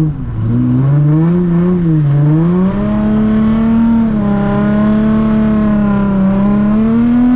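Nissan 350Z's V6 engine revving: the pitch rises and falls a few times, then holds steady at higher revs and climbs a little near the end.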